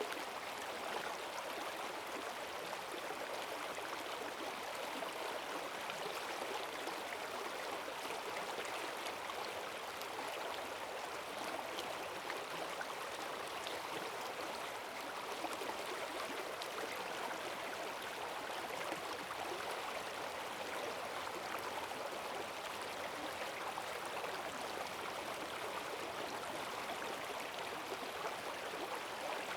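Forest stream running high after heavy rain, water rushing and gurgling steadily over its bed.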